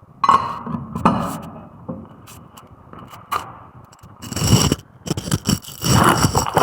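Metal objects knocking, scraping and clinking in an irregular string of strikes, some of them ringing briefly, the loudest about four and a half seconds in and again near the end.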